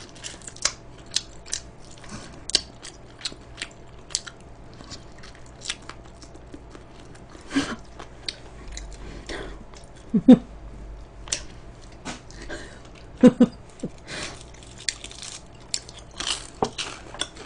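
Close-up chewing and biting of crispy fried chicken: irregular crisp crunches and mouth clicks, with a couple of louder smacks about ten and thirteen seconds in.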